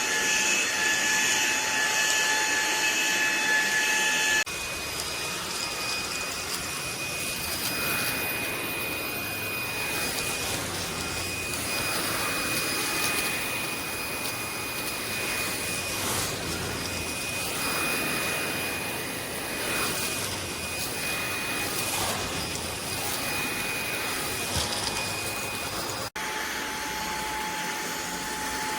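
Eureka cordless stick vacuum running steadily, an airy rush with a high motor whine. The whine and the level change abruptly about four seconds in and again near the end.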